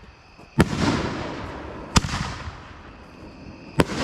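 Aerial firework shells going off: three sharp bangs over a second apart, each followed by a long fading echo.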